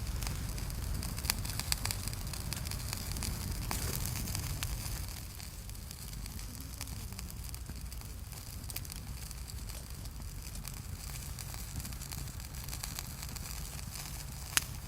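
Cooking fire crackling, with scattered sharp pops and the loudest pop near the end, over a steady low rumble. It is somewhat quieter after about five seconds.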